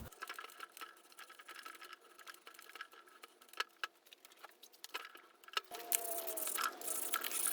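Faint, irregular light clicks and ticks of small metal engine parts being handled on a workbench, with a brief faint squeak about six seconds in.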